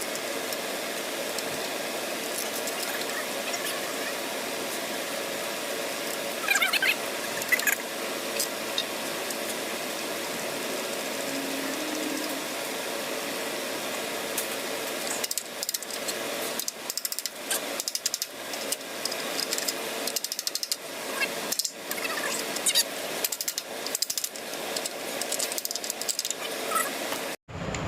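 Hand tools working on metal: irregular ratcheting and clicking over a steady hum, choppier from about halfway through.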